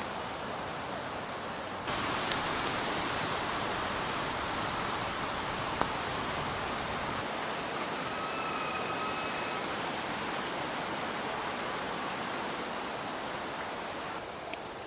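Wind blowing through woodland trees, a steady rushing that steps up suddenly about two seconds in and eases a little about halfway through. A few sharp ticks and a faint short drawn-out tone near the middle.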